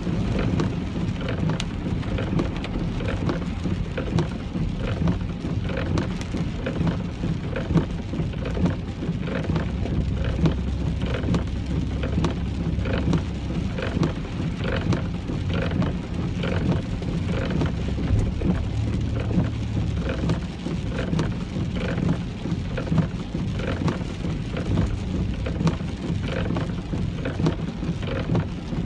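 Rain drumming on a moving car's roof and windshield: many separate drop strikes over a steady low rumble.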